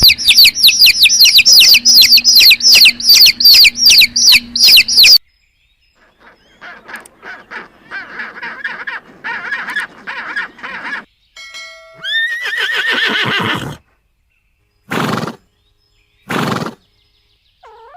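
A string of separate animal calls. First comes a loud, rapid run of high, repeated chirps lasting about five seconds, then quieter scattered calls. About twelve seconds in there is a pitched call that rises and falls, and near the end two short noisy calls.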